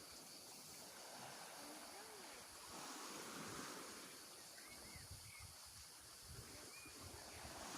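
Faint outdoor ambience: soft wind buffeting the microphone, stronger from about halfway through, with a few faint short chirps.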